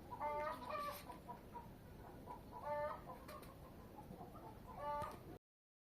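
A hen clucking: four short calls, two close together at the start, one in the middle and one near the end, after which the sound cuts off.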